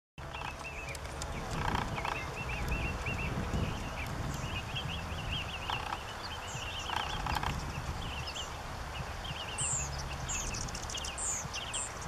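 Small birds calling: series of quick, wavy chattering chirps repeat throughout, with a few thin, higher chirps near the end, over a steady low rumble.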